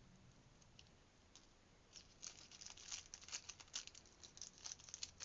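Faint small clicks and rustles of jewellery findings and beads handled by fingers, starting about two seconds in as a quick, irregular run of ticks.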